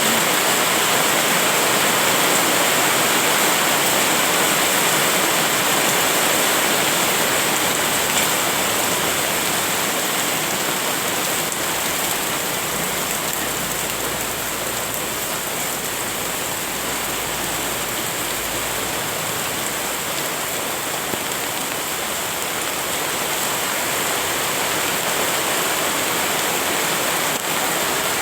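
Steady rain falling and pattering on surfaces, an even hiss throughout, with a faint low rumble in the middle.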